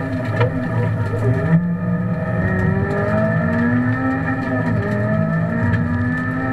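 Honda Civic Type R rally car's engine heard from inside the cabin, pulling hard on a stage. Its pitch climbs twice as the car accelerates.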